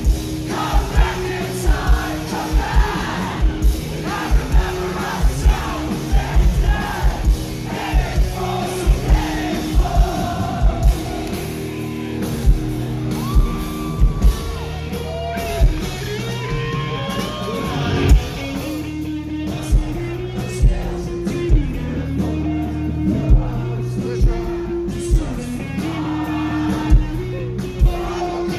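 Live rock band playing loud: drums keeping a steady beat under guitars, with a lead vocal singing over them.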